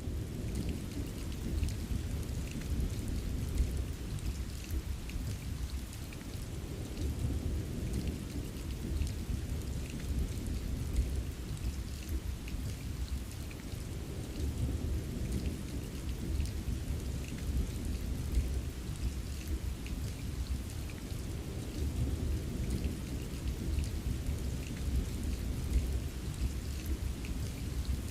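Rain-and-thunderstorm ambience: steady rain with scattered fine drop ticks over a deep continuous rumble that swells and eases slowly.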